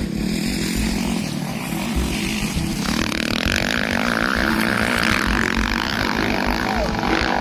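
A small engine running at high revs, a steady whine that comes in about three seconds in, over a low rumble of wind buffeting the microphone.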